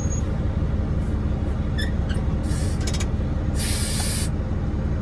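Truck's diesel engine idling steadily in the cab, with short hisses of released compressed air, a brief one about two and a half seconds in and a longer one about a second later.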